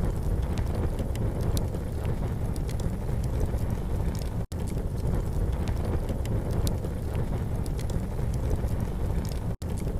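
Campfire crackling, with scattered sharp pops over a steady low rumble. The sound cuts out for an instant twice, about five seconds apart.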